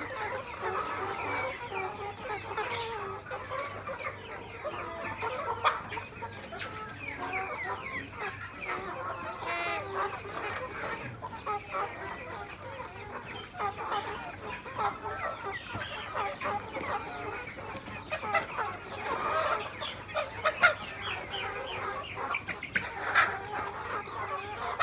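A flock of crossbreed chickens clucking continuously while feeding, many short overlapping calls, with scattered sharp clicks.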